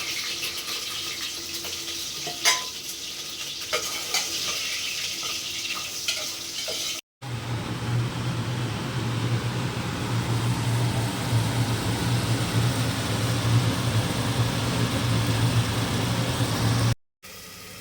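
Kitchen work: a few sharp clinks of metal utensils against cookware over a steady hiss. After a cut comes a louder steady hiss with a low hum.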